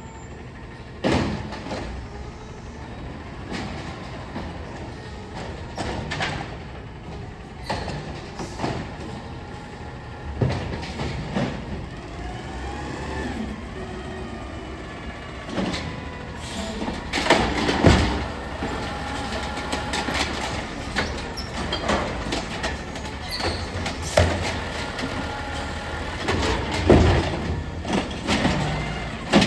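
Amrep-bodied garbage truck at work: the engine runs under a rising hydraulic whine, with repeated clanks and bangs of metal and carts. The loudest bangs come in the second half.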